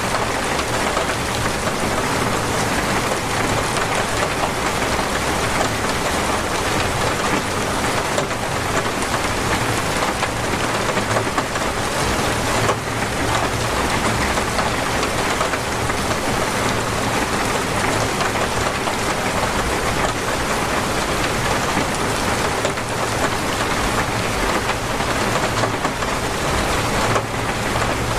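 Heavy, torrential rain falling steadily on surfaces, a dense even hiss without letup.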